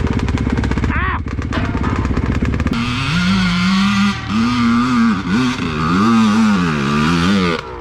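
Dirt bike engine running close with rapid, even firing pulses. After an abrupt change about two and a half seconds in, a dirt bike engine revs up and down repeatedly as it rides off.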